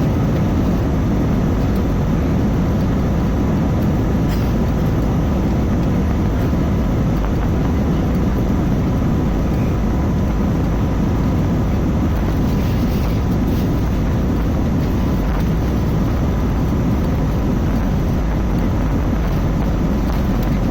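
Airbus A320 jet engines running at takeoff power: a steady, loud rushing noise, mostly low, with a faint steady whine above it.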